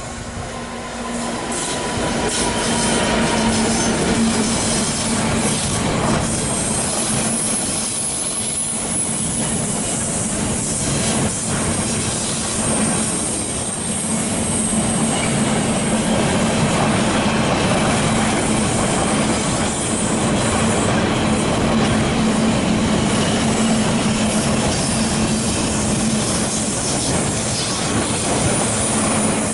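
A freight train passing: the Freightliner Class 66 diesel locomotive grows louder over the first few seconds as it goes by, then a long rake of loaded container flat wagons rolls past with a steady rumble and hum and clicking wheels over the rail joints. High-pitched wheel squeal comes and goes as the wagons take the curve.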